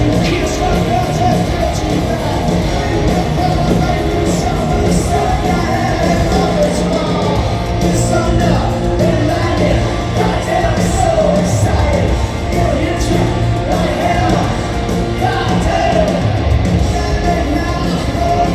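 Live hard-rock band playing with a singer over guitars, bass and drums, heard in the echo of a large arena.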